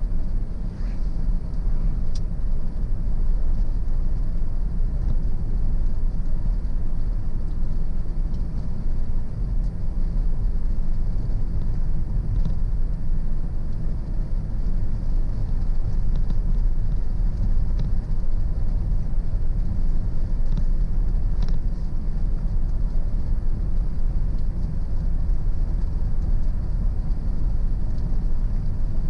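A car driving on country roads: a steady low rumble of engine and tyres on the road surface, with a few faint ticks.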